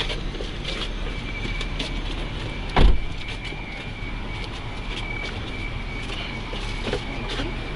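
Bus running, heard from inside: a steady low rumble with a thin steady whine, small rattling clicks, and one loud thump about three seconds in.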